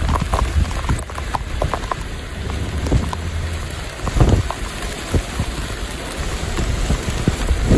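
Heavy rain from a thunderstorm squall line, with many sharp drop hits close to the microphone. A low rumble of wind on the microphone fades out about a second in.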